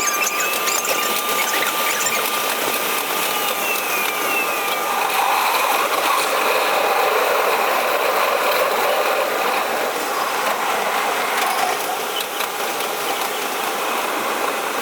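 Electric commuter train pulling away and gathering speed, heard from inside the cab: a whine with gliding tones over the first five seconds, then steady wheel-on-rail running noise with light clicks.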